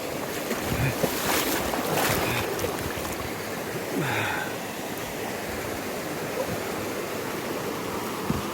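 Steady rushing of a river swollen by heavy rain. A few brief sharper noises come in the first couple of seconds.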